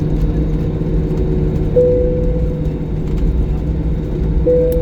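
Steady engine rumble and hum heard inside an airliner cabin while it taxis after landing, with a steady tone that sharpens briefly about two seconds in and again near the end.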